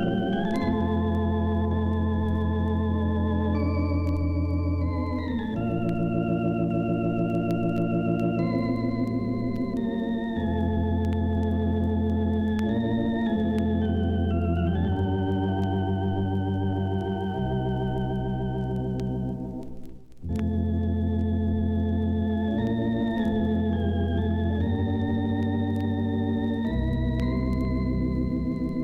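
Organ music: sustained chords with a wavering vibrato over held bass notes, changing every second or two, with a brief break about two-thirds of the way through.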